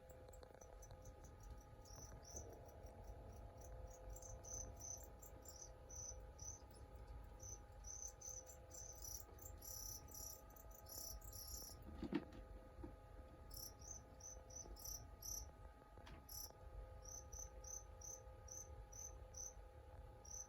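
Crickets chirping faintly, short high chirps about twice a second, over a faint steady hum. A single soft knock about twelve seconds in.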